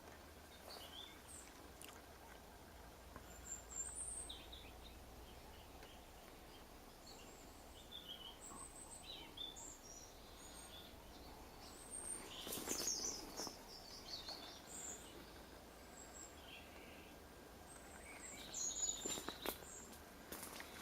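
European robin calling and singing in short, high, faint chirps scattered through woodland quiet, with a couple of brief rustling noises about midway and near the end.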